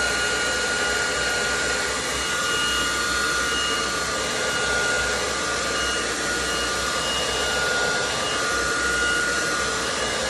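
Handheld electric hot-air blower running steadily: a rush of air with a constant motor whine, heating a fridge's sticker adhesive to soften it.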